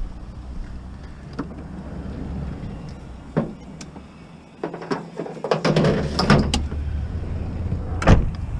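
Vehicle on the move, heard with a steady low rumble. The rumble drops out briefly about halfway through, then comes a stretch of rattling and clunks and a sharp knock near the end.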